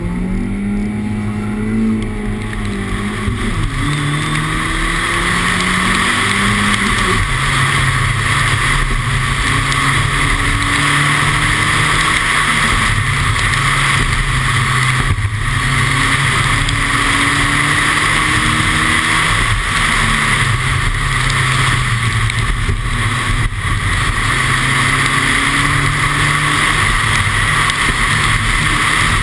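Car engine accelerating and revving up through the gears, the pitch climbing and dropping back several times, over a loud steady hiss from tyres on wet tarmac.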